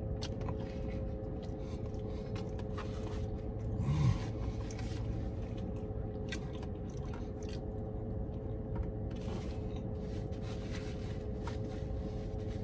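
A man chewing a mouthful of burger, with small wet mouth clicks and light rustles of the paper wrapper, over a steady hum inside a car's cabin. About four seconds in there is a short low hum from his throat.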